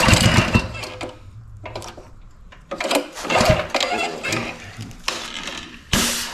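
Honda small engine on a pressure washer stumbling at low idle: it runs roughly for about a second, fades out, then comes back unevenly, with a loud start-up noise near the end. It cannot hold a steady low idle.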